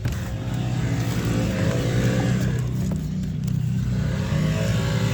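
An engine running steadily, its pitch swelling up and back down twice.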